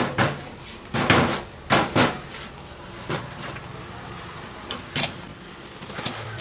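Irregular knocks and strikes of hand metalwork on motorcycle swingarm parts: about half a dozen short, sharp hits spread over the few seconds, the loudest about a second in and near the start, with a lone hit near the end after a quieter gap.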